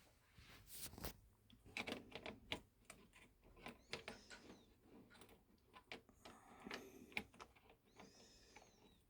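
Faint, irregular clicks and small knocks of a toy train set's parts being handled and set back on the track, with a couple of faint squeaks.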